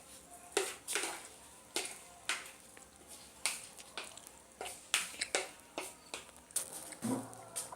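Kitchen utensil clicking and scraping against a pot or dish, in a string of sharp, irregular strokes about one or two a second.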